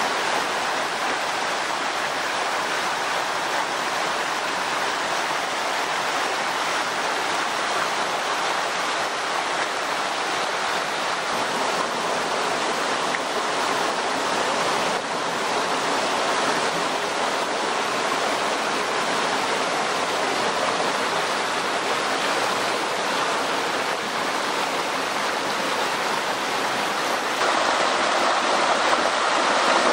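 Flowing water from a stream, rushing steadily, a little louder near the end.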